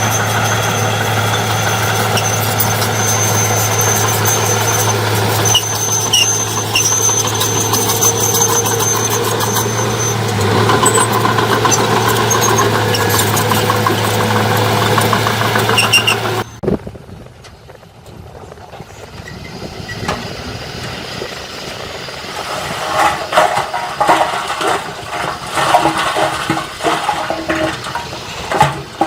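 Diesel engine of heavy earthmoving machinery running steadily with a low hum, cutting off abruptly a little past halfway. A quieter engine follows, with irregular clanks and knocks toward the end.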